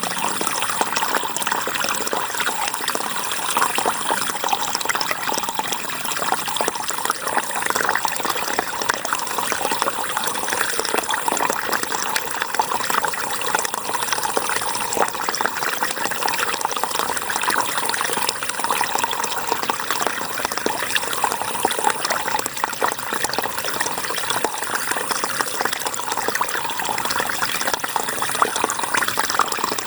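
River water flowing and splashing steadily, an even rush with no breaks.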